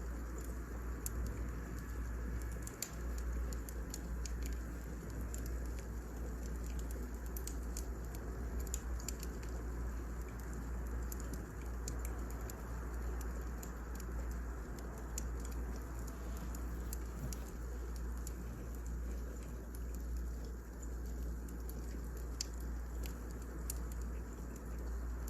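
Burning firewood crackling: many small, irregular pops over a steady low rumble.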